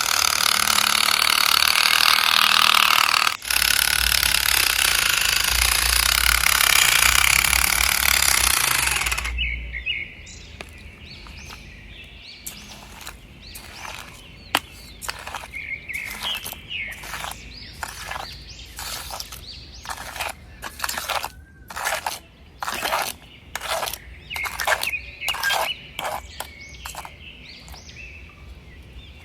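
Electric motors and gearboxes of radio-controlled model construction machines running: a loud, steady whir for about nine seconds, broken briefly about three seconds in, then a quieter string of short whirs starting and stopping in quick succession.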